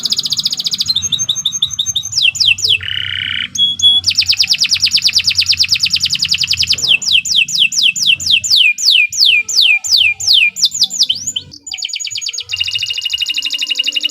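Domestic canary singing a long unbroken song. Fast rolls of rapid notes alternate with runs of high whistled notes that each fall in pitch, about five a second, with a short lower note about three seconds in.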